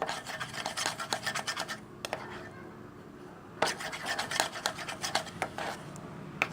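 A stirrer scraping and clicking against the inside of a container while clear glue and water are stirred together, with a short pause about two seconds in before the stirring resumes.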